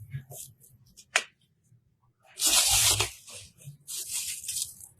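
Rustling, crinkling handling noise in uneven bursts, two louder ones about two and a half and four seconds in, with a short sharp click a little after one second.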